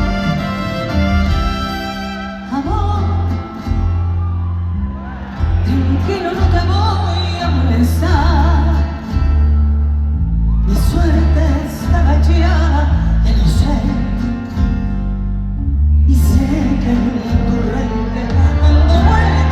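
A live pop ballad in a large concert hall: a woman sings the melody in long phrases with vibrato over a band with heavy bass.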